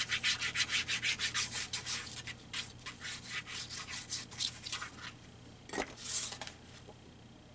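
Paper being rubbed down flat onto a glued journal page in quick, even strokes, about five a second, slowing and fading over several seconds. A single knock and a short hiss follow about six seconds in.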